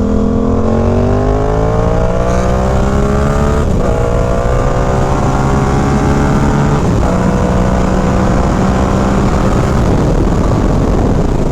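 Motorcycle engine accelerating through the gears: the pitch climbs, drops at an upshift about four seconds in, climbs again, drops at a second upshift about three seconds later, then holds steady near the end.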